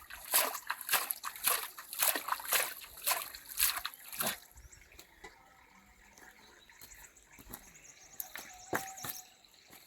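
Water splashing and sloshing in quick irregular strokes, about two or three a second, which stop a little over four seconds in. A few faint clicks and drips follow.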